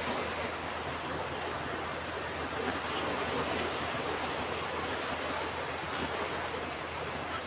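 Ocean surf washing onto a beach in a steady, continuous hiss, with no distinct single wave breaking.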